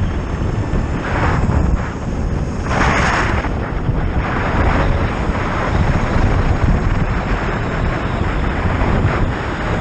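Wind rushing over the microphone of a moving Zero FX electric motorcycle, a loud steady buffeting with road rumble underneath. It surges brighter briefly about one second and three seconds in.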